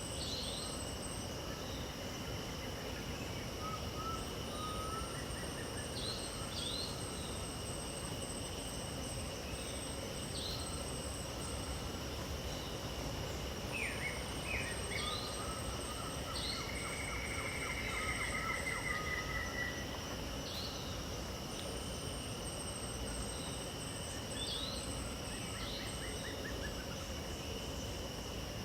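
Wild birds calling over a steady chorus of insects. Short, sharp bird notes repeat every few seconds, and a longer trill comes about two-thirds of the way through. Underneath runs a constant high insect buzz at several pitches, with a higher pulsing buzz that starts and stops in stretches.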